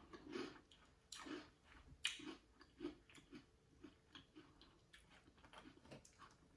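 Faint close-up chewing of a mouthful of Cap'n Crunch's Christmas Crunch corn cereal in cold milk, a run of small irregular crunches.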